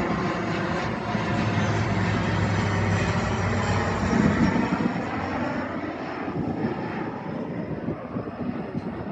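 Airplane flying past over the water, a steady engine drone that is loudest about four seconds in and then fades away.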